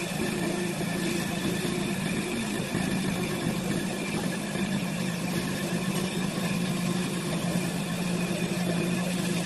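CNC wood lathe running: a steady motor hum with a constant high whine above it and an even hiss.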